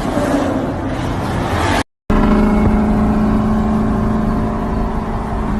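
Ford Mustang GT V8 exhaust running loud for the first couple of seconds. After a brief cut, a Mustang GT V8 idles steadily with an even, deep drone.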